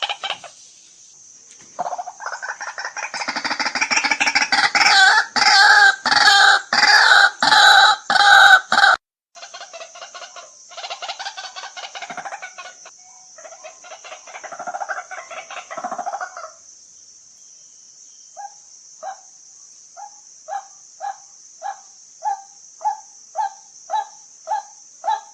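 White-breasted waterhen calling. A rapid, harsh chorus builds and grows louder for several seconds, then breaks off briefly. It resumes in ragged phrases, then settles into a run of single 'kwak' notes, about one and a half to two a second, getting louder toward the end.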